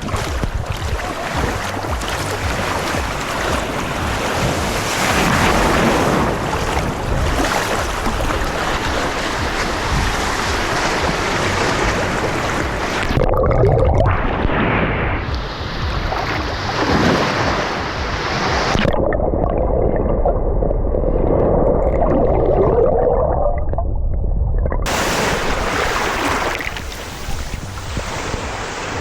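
Sea water and waves washing, with wind buffeting the microphone. Twice the sound goes muffled for a few seconds, dull and low with the high end gone.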